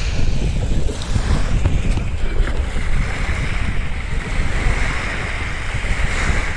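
Small sea waves breaking and washing over a pebble beach, with a hiss of surf that swells a few seconds in. Wind buffets the microphone with a steady low rumble throughout.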